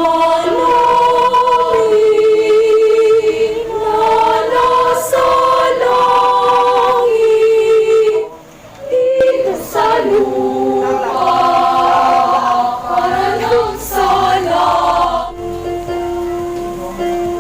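A school choir singing in parts, holding long notes together, with a short break a little past halfway before the singing resumes.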